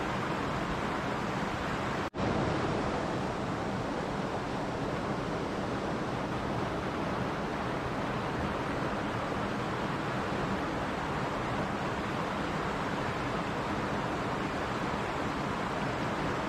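Mountain stream flowing, a steady rush of water. The sound cuts out for an instant about two seconds in, then resumes as before.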